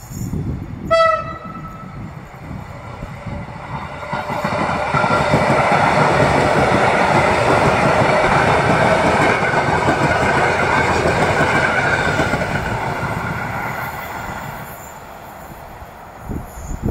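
A Koleje Mazowieckie electric commuter train gives one short horn blast about a second in. It then runs past close by, a rumble and rush of wheels on rails that builds, holds loudest for several seconds and fades away. A few knocks near the end.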